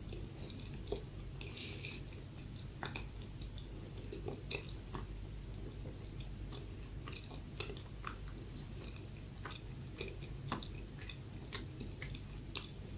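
Close-miked chewing of soft bread, with small wet mouth clicks and smacks scattered irregularly, over a low steady hum.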